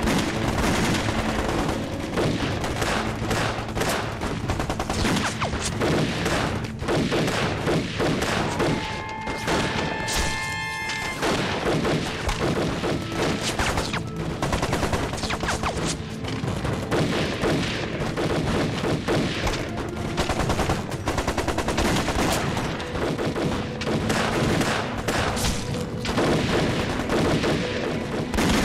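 Sustained gunfire in a battle: dense rifle and machine-gun volleys with occasional booms, over a music score.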